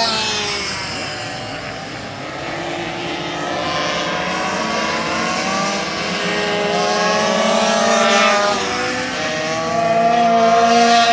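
Several racing minibikes' small high-revving engines going past, their pitch rising and falling as riders accelerate and back off. The bikes are loudest at the start and again near the end as a pack comes by.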